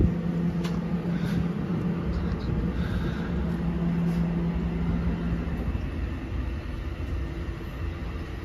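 NJ Transit commuter train of Multilevel double-deck coaches pulling out. Steady low rumble of wheels on rail with a steady hum that stops about two-thirds of the way through, and a few light clicks.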